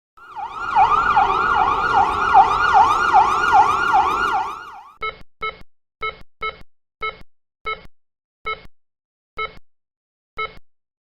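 Emergency vehicle siren in a fast up-and-down yelp, about three sweeps a second, cutting off just under five seconds in. It is followed by about ten short electronic beeps that come further and further apart.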